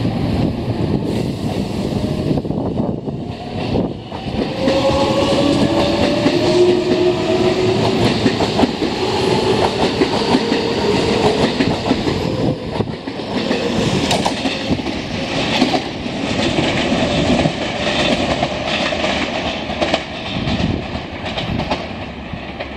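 JR West electric commuter train pulling out alongside the platform: its motor whine rises in pitch a few seconds in as it accelerates, over the rumble and rhythmic clatter of the wheels on the rail joints as the cars go by.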